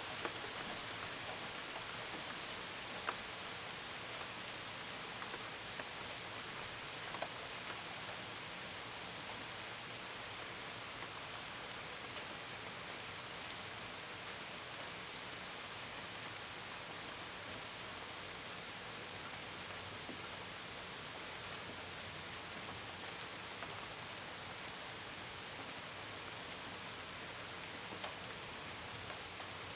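Steady gentle rain, with scattered drops tapping on a window and gutters and one sharper tap about halfway through. Crickets chirp faintly behind it in a regular, even pulse.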